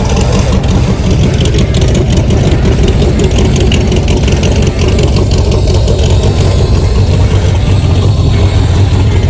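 Loud car engine running steadily with a rapid, rough exhaust pulse, holding at about the same speed throughout.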